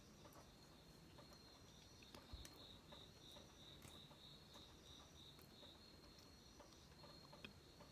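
Faint insect chirping: a steady high trill, joined in the middle by a slower pulsed chirp at about three a second. There is a soft knock about two seconds in.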